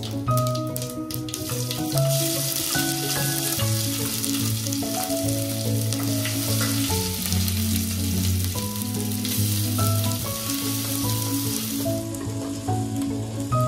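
Food sizzling in hot oil in a pan, the sizzle loudest through the middle and easing near the end, under background music with a melody and bass line.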